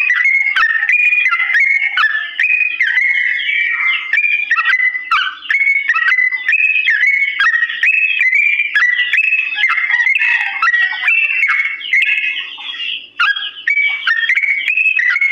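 Yellow-vented bulbul (trucukan) singing a long unbroken run of short, clear whistled notes, two or three a second, each stepping up or down in pitch.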